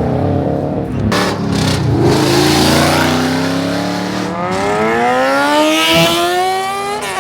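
A car engine accelerating hard, its pitch climbing steadily for about four seconds, then a brief break near the end. Earlier there is a lower engine note and a couple of sharp cracks.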